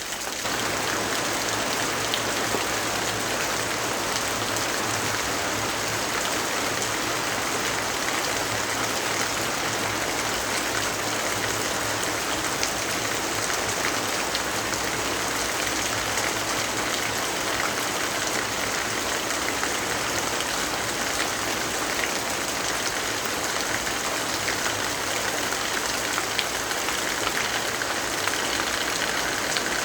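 Steady rain falling, an even hiss with scattered faint drop ticks; it steps up slightly in loudness right at the start.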